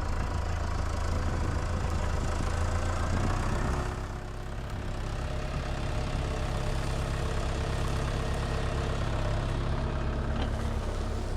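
Tractor engine running steadily, dropping a little in level and pitch about four seconds in.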